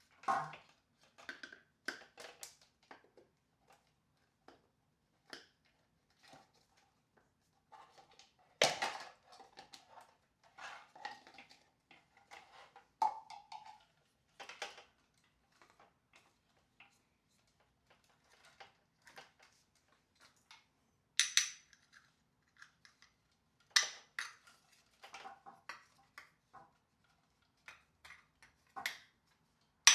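Scattered clicks, taps and knocks of plastic housing parts being handled and fitted together while a floor washer is reassembled, with a few louder knocks among them. No motor is running.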